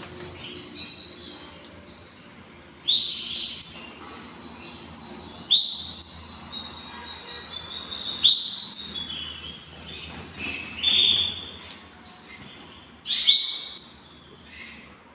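Canaries chirping and twittering, with a loud, high call about every two and a half seconds, five in all, each starting with a quick upward sweep.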